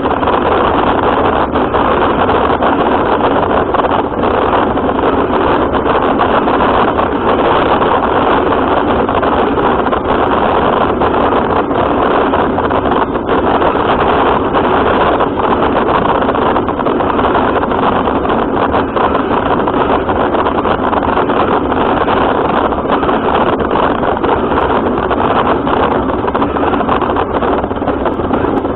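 RC car running, heard from its own onboard camera: a steady, loud mix of motor, drivetrain and wheel-on-ground noise with no pauses.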